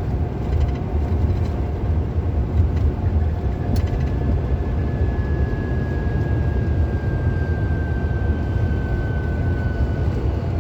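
Steady road and engine rumble inside a moving police patrol car's cabin at highway speed, with a faint high tone that slowly falls in pitch over the second half.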